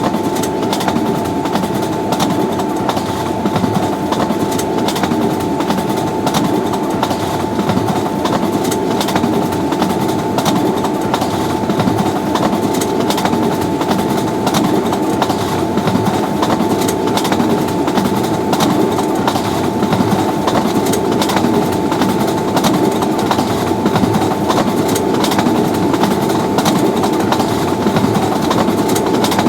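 Train running on the track, its wheels clattering steadily over the rails with a thin steady whine above the rumble.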